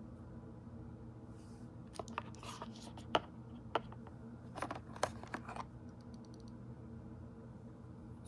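A steady low hum with a run of light clicks and taps, clustered from about two to six seconds in.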